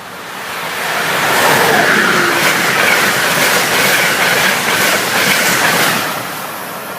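Train passing close by: wheels clicking over the rail joints. It swells about a second in, stays loud, and fades near the end.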